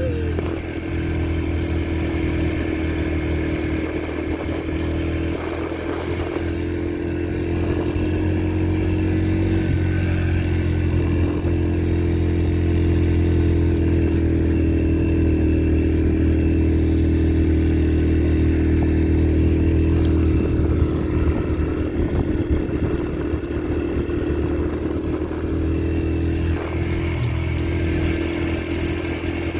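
Yamaha TT-R125LE dirt bike's single-cylinder four-stroke engine running under way as it is ridden. The note builds slightly toward the middle and eases off after about twenty seconds.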